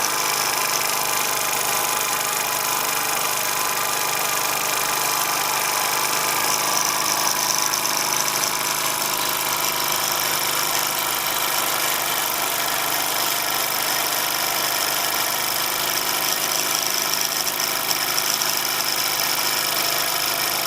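Bowman M140 model steam engine running steadily on compressed air, with a continuous hiss of exhausting air.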